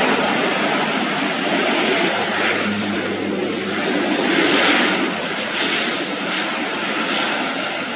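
Airliner passing close at the airport, its engines a loud, steady rush of noise with a low hum, easing slightly in the second half.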